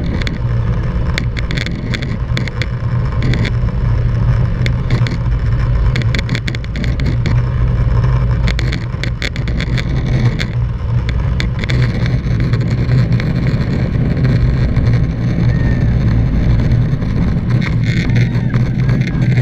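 Boeing 737-800's CFM56-7B turbofan engines heard from inside the cabin: a loud, steady roar with a deep hum, and scattered short clicks over it.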